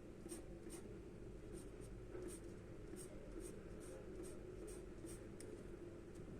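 Charcoal scratching on paper in short, quick strokes, about two a second, over a faint steady hum.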